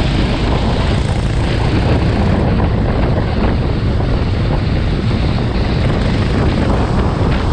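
Loud wind buffeting on the microphone of a moving racing kart, mixed with the kart's engine and water noise from driving on a rain-soaked track. It is a dense, steady rush with no clear engine pitch standing out.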